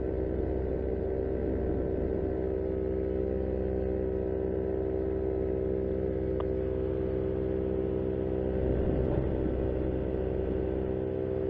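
Powered paraglider's backpack engine and repaired propeller droning steadily in flight at constant throttle, with a slight swell in level about nine seconds in.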